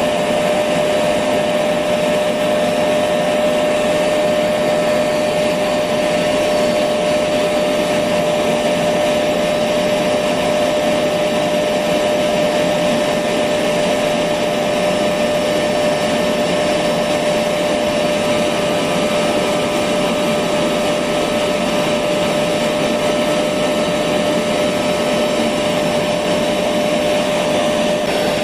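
Electric vacuum cleaner running steadily, a constant whooshing motor noise with a steady whine on top, used as white noise to lull a baby to sleep.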